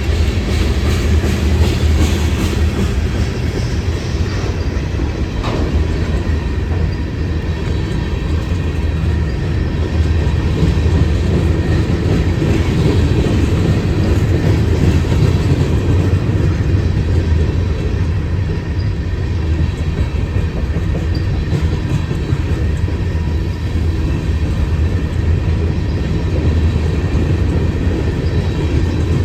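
Freight train rolling past, a steady low rumble of its wheels on the rails that keeps on without a break.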